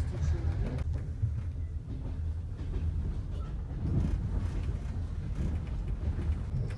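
Passenger train running, heard inside the carriage: a steady low rumble.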